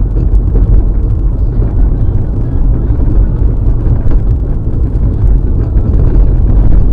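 Loud, steady low rumble of a moving car: road and wind noise on a dashcam microphone.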